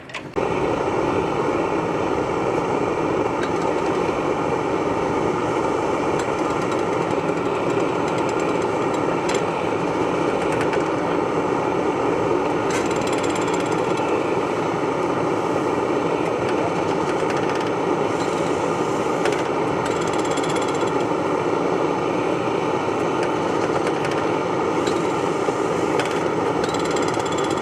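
Antique engine running steadily, starting abruptly.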